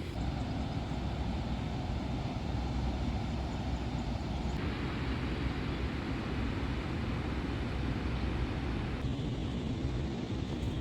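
Steady rush of high, fast floodwater pouring over and below a dam, a continuous noise heaviest in the low end. It changes abruptly in tone about four and a half and nine seconds in.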